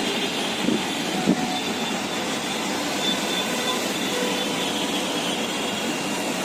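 Passenger train running past on the tracks with a steady rumble, and two sharp knocks about a second in.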